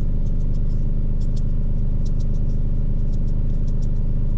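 Truck engine idling with a steady low hum in the cab, with a run of light, irregular clicks as garlic seasoning is put on the steak.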